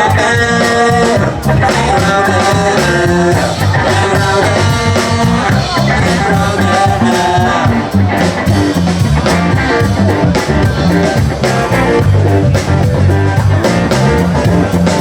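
Live band playing a rock and roll number: guitar, bass and drums at a steady beat, with singing.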